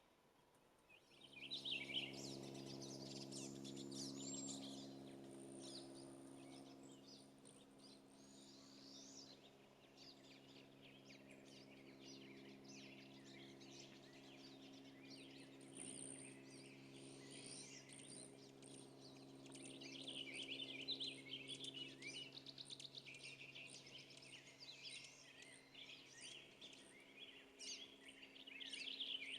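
Several small songbirds singing and chirping, faint, over a steady low hum that starts about a second in.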